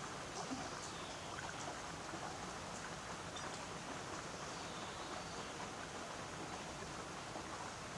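Steady rain falling, an even hiss dotted with small drips and patters of water.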